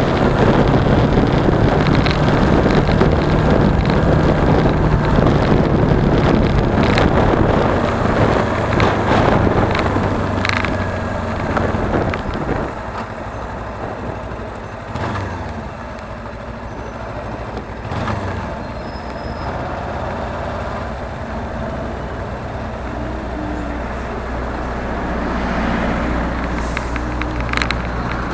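Suzuki V-Strom 250 motorcycle riding, its parallel-twin engine running under heavy wind rush on the camera microphone. About twelve seconds in, the wind rush drops and the engine's steady hum comes through plainer. Several short knocks sound along the way.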